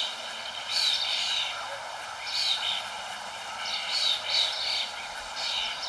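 Songbirds chirping in short flurries of quick high notes, one every second or two, over a steady background hiss.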